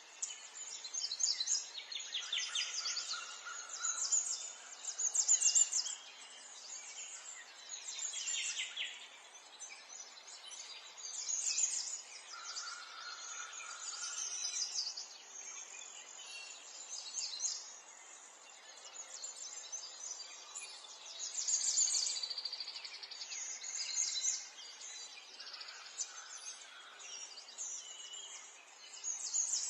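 Small songbirds chirping and trilling in quick, high-pitched bursts, one after another and overlapping, over a faint steady background hiss.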